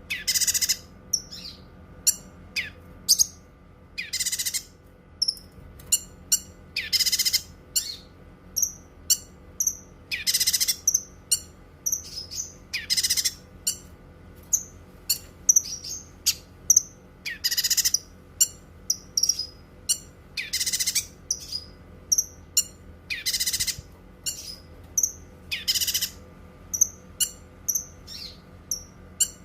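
Cucak kinoi singing: a loud rapid phrase about every three seconds, with many short high chirps between them.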